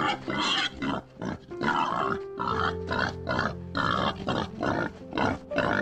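Young boars making short, rough calls in quick succession over background music with long held notes.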